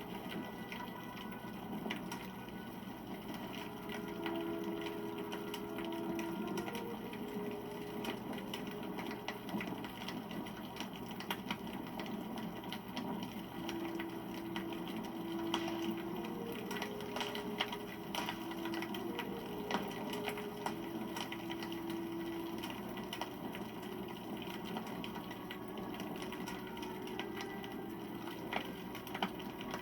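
Wood fire burning with a steady rush and irregular crackles and pops from the burning logs. A few brief, low whistling tones come and go around the middle.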